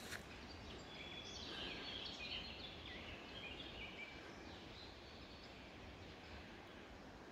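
Faint songbird twittering, a run of short high chirping notes starting about a second in and lasting about two seconds, over a steady background hiss.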